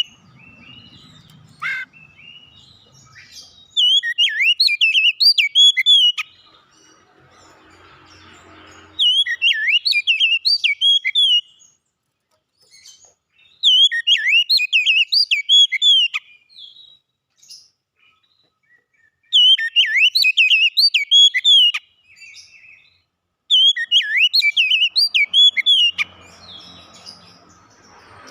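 Oriental magpie-robin (kacer) singing in about five bouts of rapid whistled, warbling phrases. Each bout lasts about two and a half seconds, with pauses of a few seconds between them.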